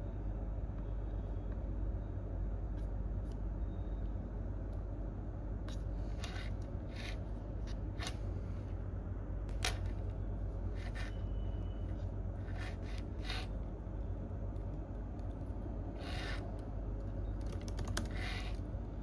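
Computer keyboard keystrokes in short, irregular runs of clicks, starting about a third of the way in, over a steady low room hum.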